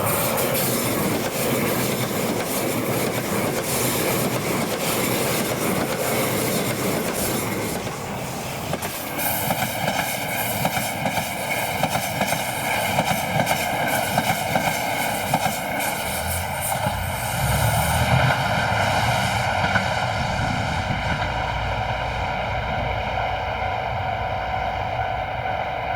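A KTR8000 diesel railcar running past over the rails, with steady wheel-on-rail noise for about nine seconds. The noise then gives way to a steady drone of several held tones.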